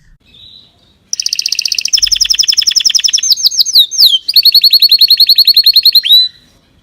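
A songbird singing: a long run of very fast, high trills starting about a second in, a few sliding whistled notes midway, then another rapid trill that ends a little after six seconds.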